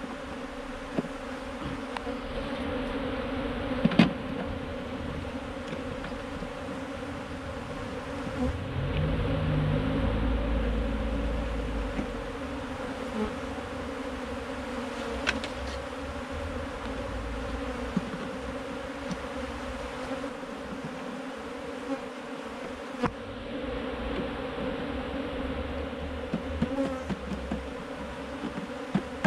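Honey bees buzzing in a steady, dense drone around a freshly opened wild colony, with a few sharp knocks and a brief low rumble partway through.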